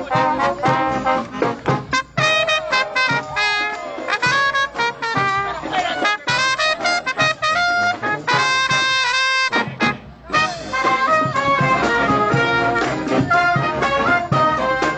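College brass band of trumpets, trombones and saxophones playing live, with short punchy chords and a brief break about ten seconds in.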